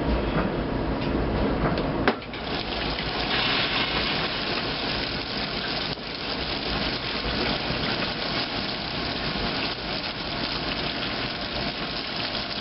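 2008 Kenmore top-load washing machine filling with water at the start of a heavy duty cycle. A low hum ends with a click about two seconds in, and then comes a steady rush of water into the tub.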